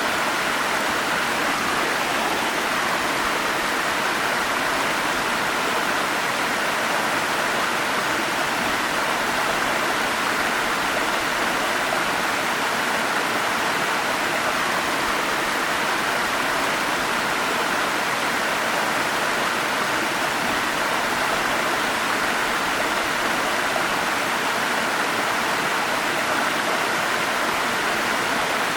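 Forest stream rushing steadily over small falls, a constant even splashing with no breaks.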